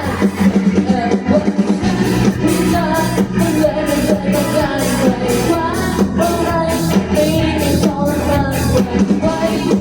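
Live performance by a young student rock band: a singer's melody over a full band with bass and a steady drum beat.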